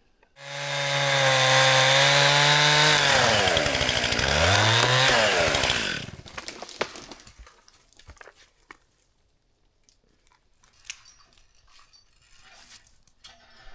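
Chainsaw running at high speed for about five seconds, its pitch sagging and recovering as it loads up in a cut, then dropping away suddenly about six seconds in. Faint scattered knocks and cracks follow.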